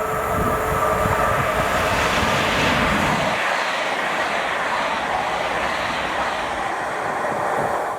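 A train passing by on the mainline, a steady rush of wheel and rail noise with a faint whine; its low rumble drops away about three seconds in.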